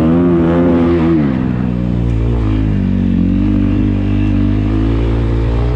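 Dirt bike engine running hard on a motocross track: the revs hold high, drop about a second in as the throttle closes, then climb slowly again.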